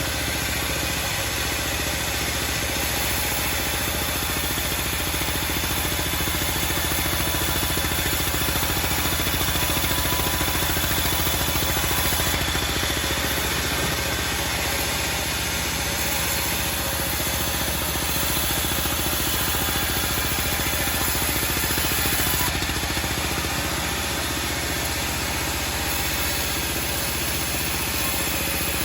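Homemade band sawmill running with a steady, continuous mechanical noise.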